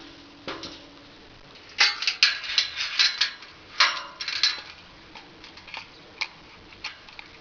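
Metal objects clanking and rattling against each other in a run of sharp knocks, a few of them ringing briefly, busiest from about two to four and a half seconds in, then thinning out to scattered clicks.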